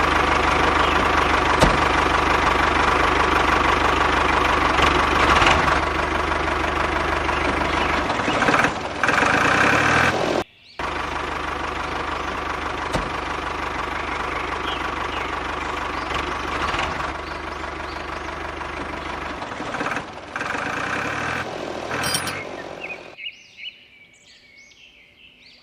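RC backhoe loader running with a steady engine-like sound. It breaks off sharply for a moment about ten seconds in, then carries on and fades away shortly before the end.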